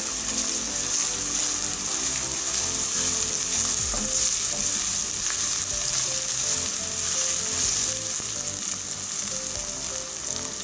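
Sliced onions and spices sizzling steadily in hot oil in a pan while being stirred with a wooden spatula.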